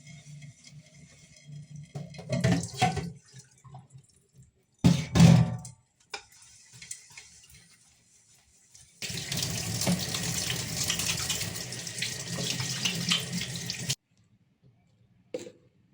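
Water tap running into a sink for about five seconds, then shut off abruptly. Before it, two short loud clatters of things being handled.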